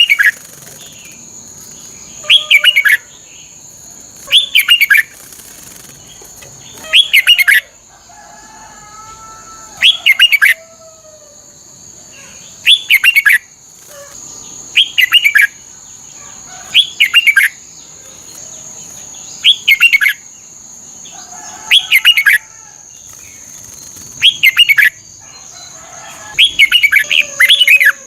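Red-whiskered bulbul singing loud, short warbling phrases, one every two to three seconds, each dropping in pitch, with a steady high-pitched hum underneath.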